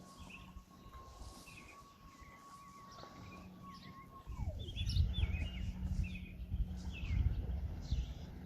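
Outdoor ambience with birds chirping and calling. A long, steady whistle-like tone holds for about four seconds, then slides down in pitch. About four seconds in, a low rumbling noise gets louder.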